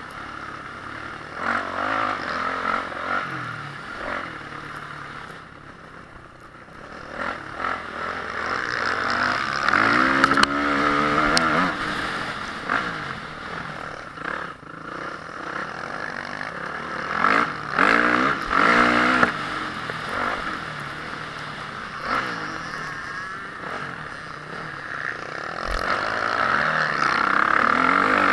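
Honda CRF450R motocross bike's single-cylinder four-stroke engine being ridden hard, revving up and down: its pitch rises as it accelerates and drops briefly as the throttle is closed, over a steady rushing noise.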